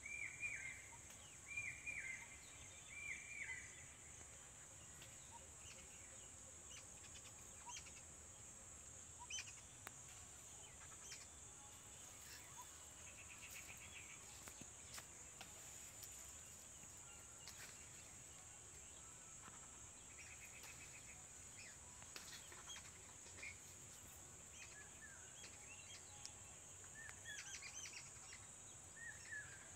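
Faint birdsong outdoors: a bird repeats the same short arching call about four times in the first few seconds, then scattered brief chirps follow over a steady high-pitched hiss.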